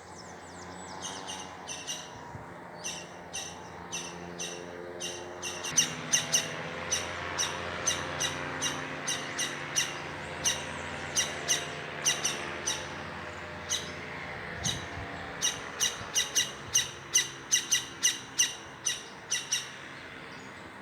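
A bird calls over and over in short, sharp notes, about one or two a second, starting about a second in and bunching closer together near the end.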